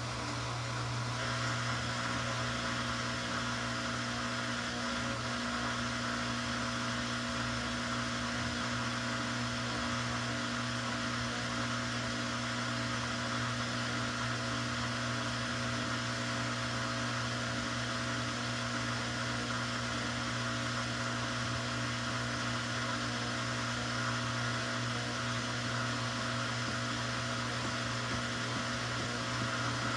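Samsung washing machine on its final spin, the drum turning at high speed with a steady motor hum; a higher hiss joins about a second in.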